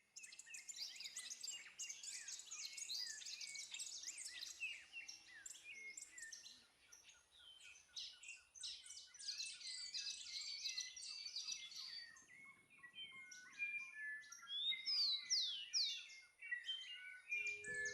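Many wild birds calling and singing at once, a dense overlapping chorus of quick chirps and whistles, with several clear downward-sweeping whistles in the later part. Music begins right at the end.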